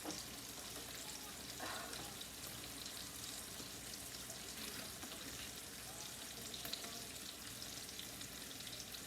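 Tilapia fillets frying in a pan of hot oil: a steady sizzle with light crackling.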